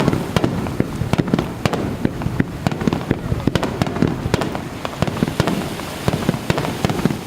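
Aerial fireworks going off in a rapid, irregular string of bangs and crackles, several a second, over a low rumble.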